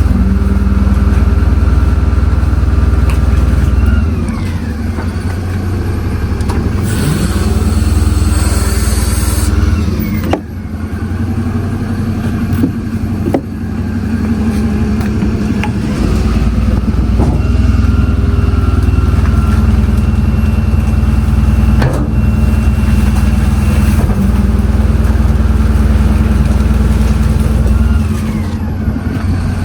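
Refuse truck's diesel engine running, its note dropping and rising again several times as the load changes. A loud hiss starts about seven seconds in and lasts a couple of seconds, and there are a few sharp clicks shortly after it.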